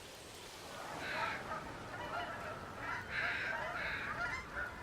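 A flock of geese honking, many short calls overlapping, getting louder about a second in.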